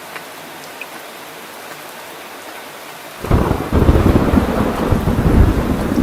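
Steady rain falling with scattered drop ticks; about three seconds in a loud, deep rumble of thunder breaks in suddenly and keeps rolling.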